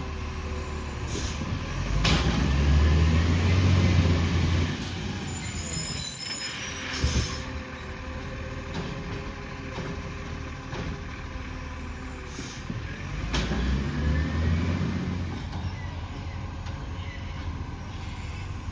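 Garbage truck running, its engine rising twice for a few seconds each, with a hiss of air brakes about five seconds in.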